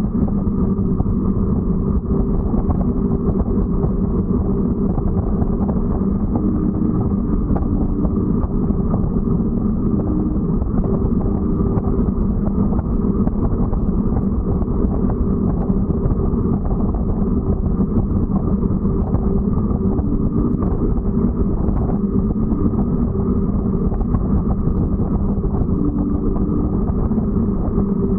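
Loud, steady engine drone with a constant low hum that does not change in pitch.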